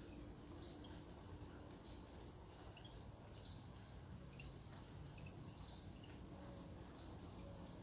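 Faint backyard birdsong: short high chirps repeating about once a second over a low, steady background hum.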